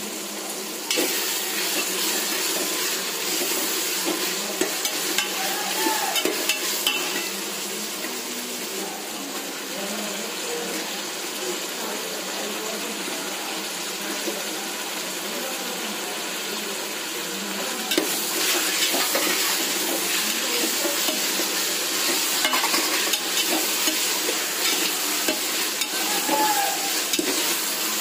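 Onions, tomatoes and green chillies sizzling in hot oil in an aluminium pressure cooker, stirred with a perforated steel spatula that scrapes and knocks against the pot. The sizzling grows louder about a second in and again about two-thirds of the way through.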